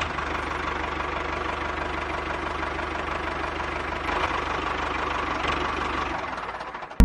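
An engine idling with a rapid, even knock, fading away near the end.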